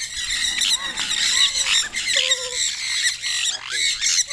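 Many birds calling at once: a dense, unbroken chorus of overlapping squawks, chirps and short whistled glides.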